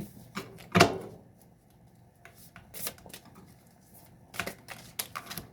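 Tarot cards being handled: a string of sharp card snaps and taps, the loudest about a second in.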